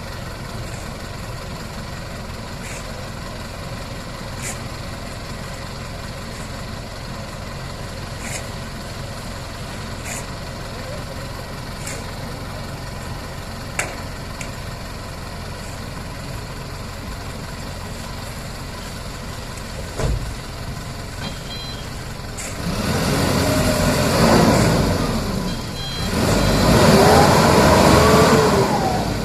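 Mitsubishi Fuso Canter dump truck's diesel engine idling steadily, then revved hard in two long surges near the end as the loaded truck strains to pull free of the soft sand it is stuck in.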